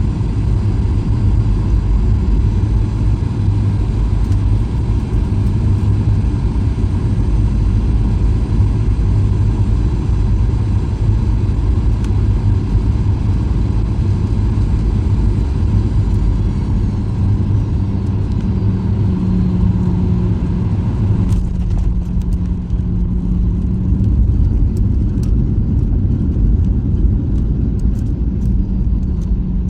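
Cabin noise of a Boeing 737-800 on the ground after landing: a loud, steady rumble of wheels and engines, with an engine whine falling in pitch. About two-thirds through, much of the hiss drops away suddenly and a low steady hum remains.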